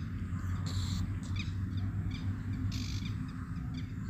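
Birds calling: a run of short, high, falling chirps, and two harsher rasping calls about two seconds apart, over a steady low rumble.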